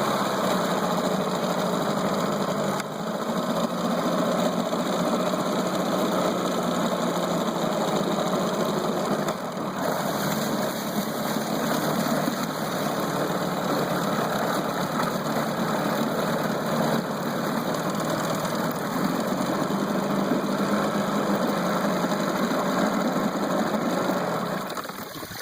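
Mercury 9.8 HP tiller outboard motor running steadily, settling to a slightly lower pitch at the start and dying away near the end.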